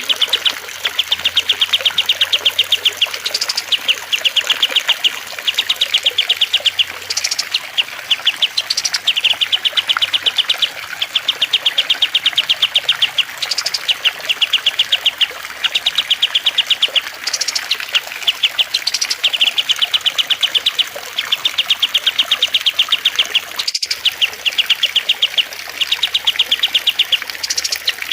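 Small songbird repeating a rapid, high chattering trill, each about a second long, over and over with short gaps, above a steady background hiss. There is one sharp click about 24 seconds in.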